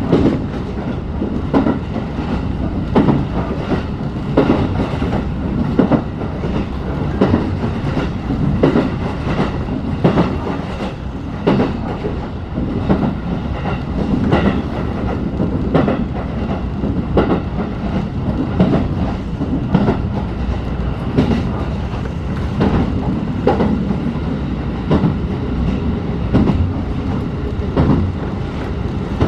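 Inside a locomotive-hauled passenger coach in motion: a steady rolling rumble with the clickety-clack of the wheels crossing rail joints, a knock about every one and a half seconds.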